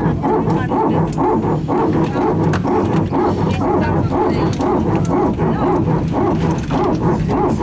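Airbus A320 hydraulic Power Transfer Unit running, a loud rapid repeating bark like a barking dog. It keeps cycling after the engines have been shut down, the sign of the PTU pushing pressure from one hydraulic system into the other.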